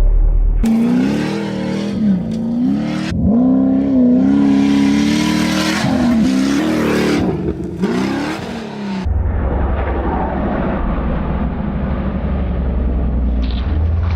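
Pro Lite race truck's LS3 V8 revving hard, its pitch climbing and falling with the throttle and gear changes, in several short clips that cut sharply into one another. For the last few seconds the revving gives way to a steady low rumble.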